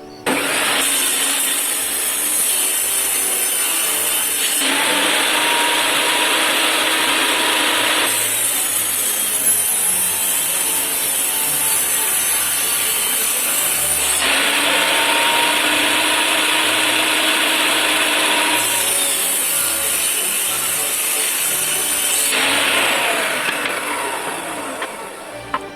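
Power tool working pine wood: a loud, steady, hissing whir, cut into several short clips that change every few seconds.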